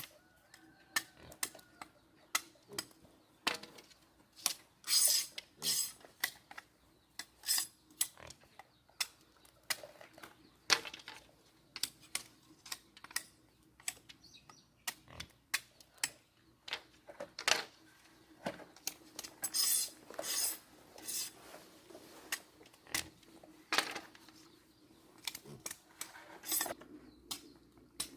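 Irregular light clicks, taps and knocks, a few of them sharper and louder, over a faint steady hum.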